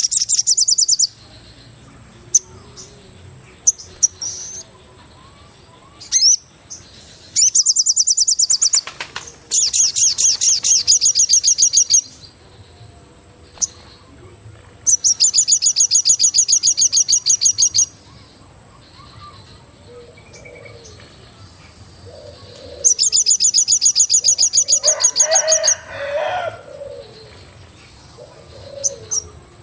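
Tropical forest birds calling: loud, fast-pulsed high trills lasting a second or three, repeated about five times, with softer lower calls in between. A thin, steady high whine runs underneath.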